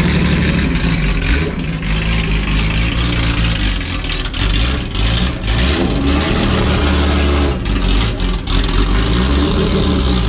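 Porsche 911 race car's flat-six engine running just after start-up, revved in short blips so its pitch rises and falls several times.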